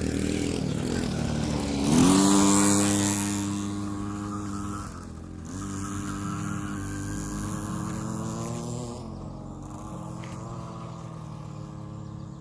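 Dirt bike engine revving up sharply about two seconds in, easing off briefly around five seconds, then running at a steady pitch and growing quieter as the bike rides away.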